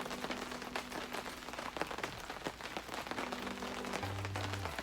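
Rain on a tarp overhead: a steady patter of many drops.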